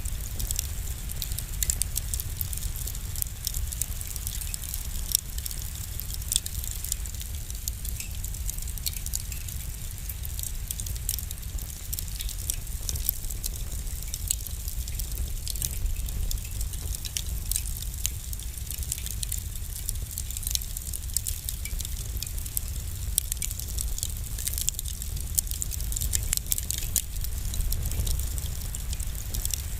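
Wood fire burning in a fireplace: a steady low rumble with many small, irregular crackles and pops.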